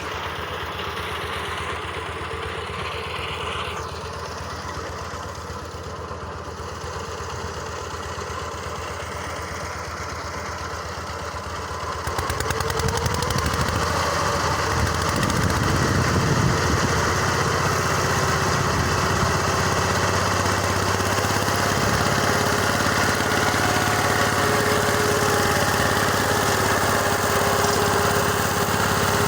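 Engine driving a rotary mower with a 1.10 m cut, running steadily; about twelve seconds in it gets louder and busier and stays so, as the mower works through grass under load on the motor.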